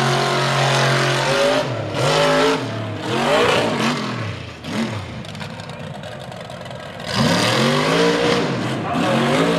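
Mega truck engine revving hard in repeated bursts, its pitch climbing and falling several times. It drops back to a lower, quieter run for a couple of seconds past the middle, then revs up again about seven seconds in.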